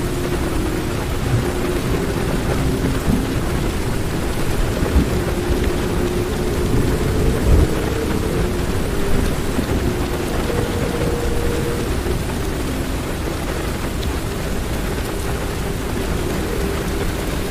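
Heavy rain falling on a car's roof and windows, heard from inside the car, over a continuous low thunder rumble that swells briefly about halfway through.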